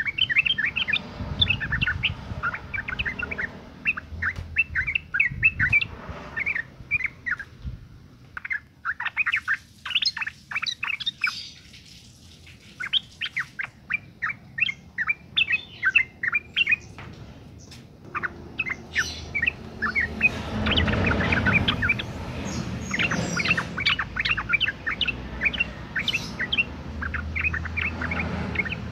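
Female yellow-vented bulbul (trucukan) calling in breeding condition: rapid runs of short, bright chirping notes in bursts with brief pauses. This is the female's call to males, used as a lure to set male trucukan singing.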